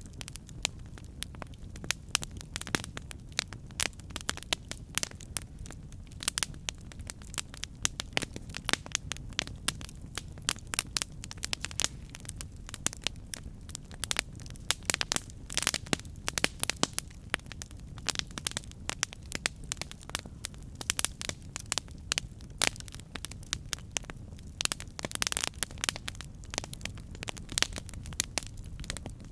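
Campfire burning: wood crackling and popping in dense, irregular snaps over a steady low rumble of the flames.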